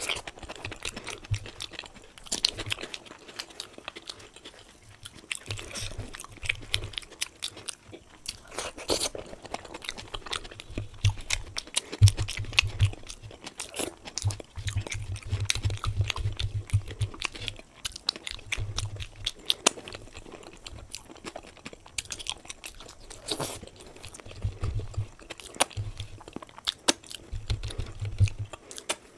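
A person eating luchi with dum aloo right at the microphone: chewing and biting, with many small wet clicks and crisp crunches and recurring stretches of low thudding.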